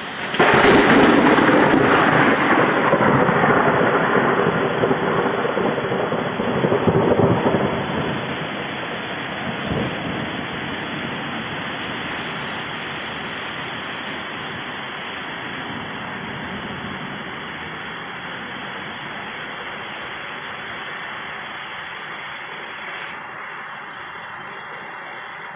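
A thunderclap crashes about half a second in and rumbles on, swelling and fading, for about eight seconds. Under it and after it, heavy rain pours down with a steady hiss.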